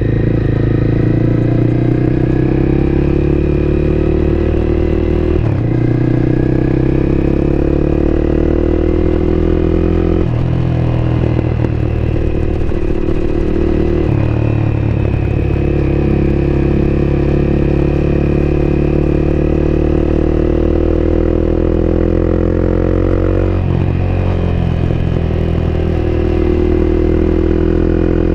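Honda CBR250R's single-cylinder engine heard on board at riding speed, its pitch climbing slowly under steady throttle. It breaks off briefly for gear changes about five, ten, fourteen and twenty-four seconds in.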